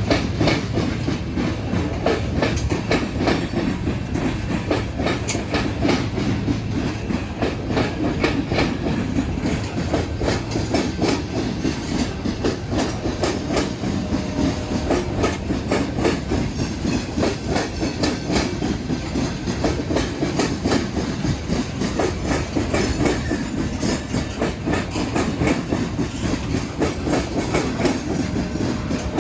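BNSF freight train rolling over a railroad diamond crossing, its car wheels clattering over the crossing in a steady stream of rapid clicks over a continuous rumble.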